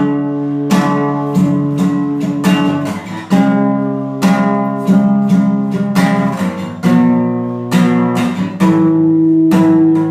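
Acoustic guitar strumming chords with no singing, the chords changing every second or so.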